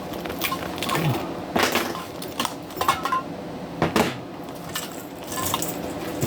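Small hard objects being handled and set down: irregular clicks and knocks, several sharper ones about a second and a half in, near three seconds and near four seconds.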